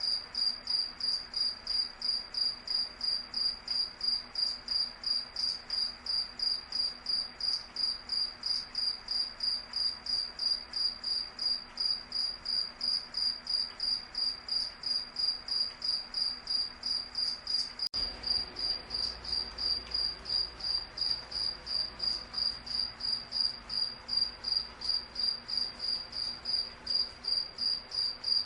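A cricket chirping steadily, an even run of high-pitched chirps at about two to three a second.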